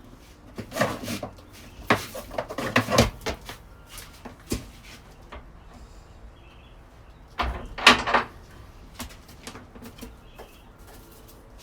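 Knocks and clatter of a goat being let off the milking stand, in three bouts about a second in, around two to three seconds, and near eight seconds, with a few faint bird chirps.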